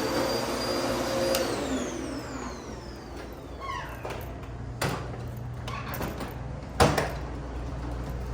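Vacuum cleaner running, then switched off with a click just over a second in; its motor whine falls in pitch as it spins down over the next few seconds. Two sharp knocks follow, the second, near the end, the louder.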